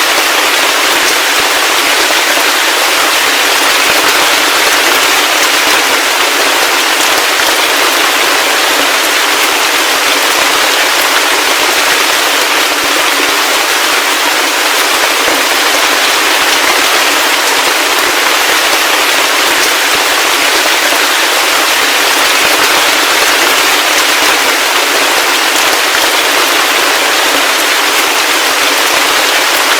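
Heavy rain: a dense, steady patter of countless drops hitting a surface, with no low rumble or thunder.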